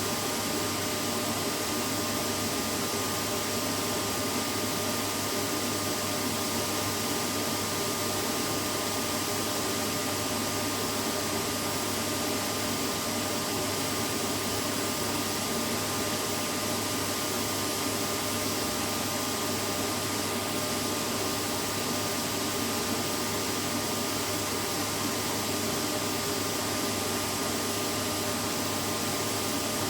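Vacuum cleaner running steadily, a constant even whooshing with a few faint steady whine tones.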